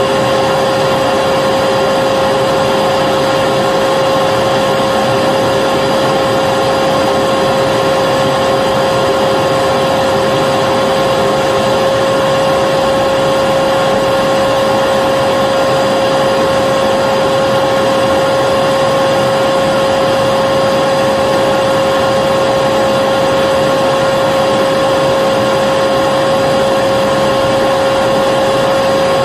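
Vacuum cleaner running continuously: a steady rushing of air with a constant motor whine, unchanging throughout.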